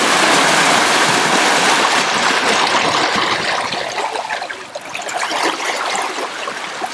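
Churning white water of a Beneteau 40.7 sailing yacht's wake rushing past astern under sail: a steady hiss of foaming water, loudest at the start and easing briefly past the middle.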